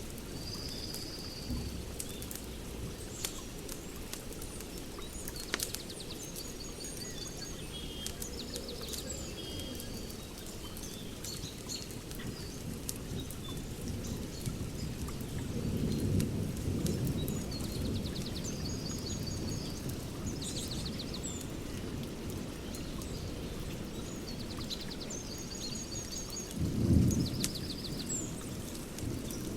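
Fire-pit fire crackling with scattered sharp pops, over a steady low rumble while birds chirp and trill. The low rumble swells louder twice, once about halfway through and once briefly near the end.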